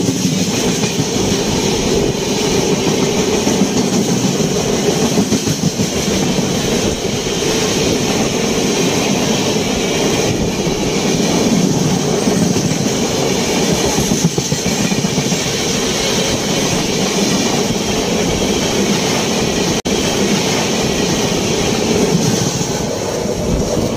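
Lucknow AC Superfast Express passenger coaches running past close by on the adjacent track: a loud, steady rumble of wheels on rails with clickety-clack.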